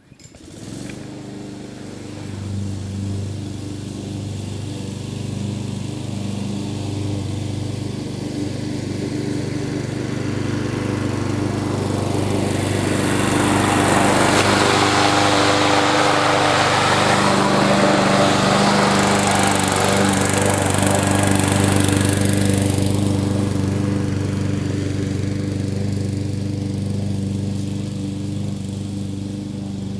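Gasoline walk-behind lawn mower with a rear bag running steadily while cutting tall, wet grass. It grows louder through the middle stretch, with a rising rush of cutting noise, then eases off again.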